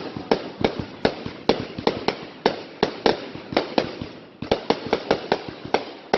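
Consumer fireworks firing a rapid run of sharp bangs, about three to four a second, in the manner of a multi-shot cake, with a brief lull just past four seconds in.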